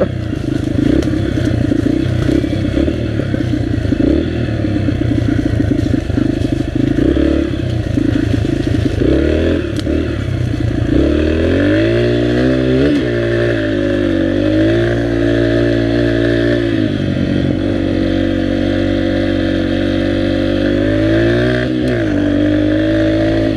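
Dirt bike engine running under way, uneven and choppy for about the first ten seconds, then rising in pitch and holding a steadier higher speed, with a few brief dips as the throttle is eased.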